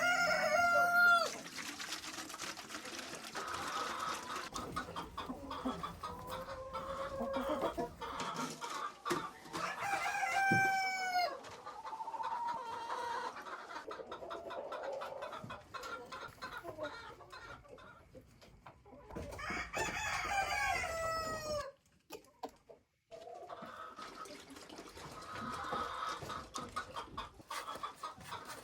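A flock of domestic chickens clucking, with a rooster crowing three times: right at the start, about ten seconds in, and about twenty seconds in.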